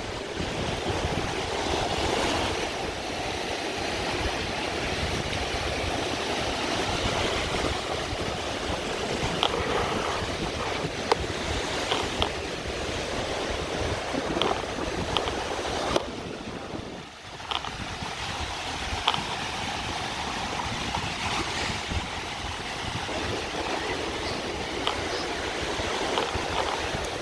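Surf breaking and washing up the beach in a strong onshore wind, with wind buffeting the microphone in gusts. The sound drops briefly about two-thirds of the way through.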